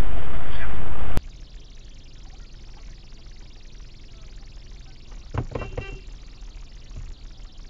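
Loud, steady road and wind noise that cuts off abruptly about a second in, giving way to a much quieter steady low hum. A short voice-like sound comes about five and a half seconds in.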